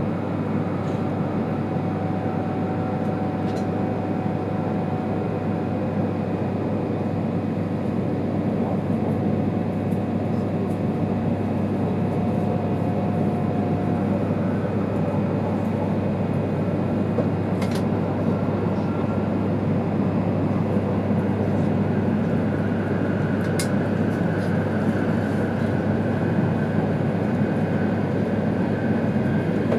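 Steady running noise of an E2 series Shinkansen at speed, heard inside the passenger cabin: a constant low rumble of wheels, track and air. Faint whines sit on top, one fading out about halfway and a higher one coming in later, with a couple of faint ticks.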